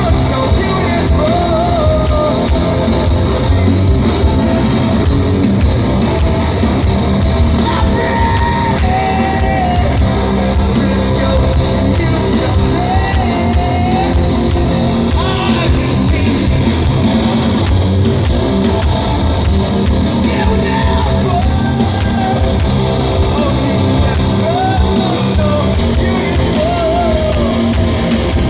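Heavy rock band playing live at full volume, with distorted guitars, drums and bass under sung and yelled vocals.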